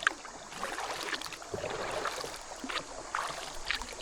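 Kayak paddle dipping and dripping in a few irregular splashes, over a steady rush of moving water like a small waterfall.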